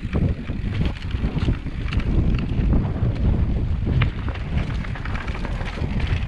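Wind buffeting the microphone in a loud, uneven low rumble, with scattered light knocks through it.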